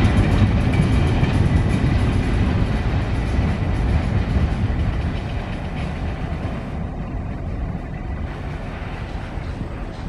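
A train running on rails, a dense low rumble that grows gradually quieter through the second half, as if moving away.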